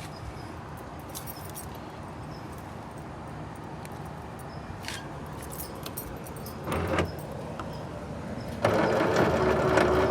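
Liftgate latch actuator of a 2007–2014 Chevy/GMC Suburban, Yukon or Tahoe clicking and buzzing when triggered without releasing the stuck liftgate, the sign of a failing actuator. A short burst about seven seconds in, then a longer, louder one lasting about two seconds near the end.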